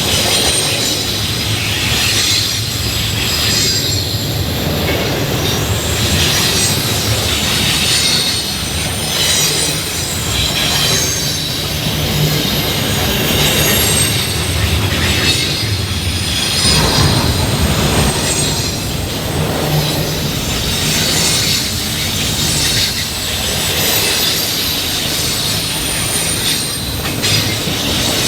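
Train rolling past, a steady rumble and clatter of railroad cars with steel wheels squealing high against the rails.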